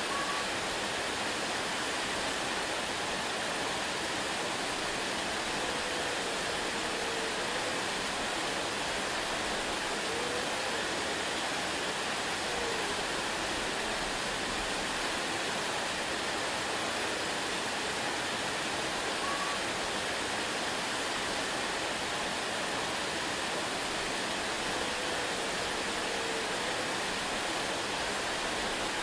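Waterfall rushing, a steady even roar of falling water with no change in level. A few faint, brief chirp-like notes sit over it now and then.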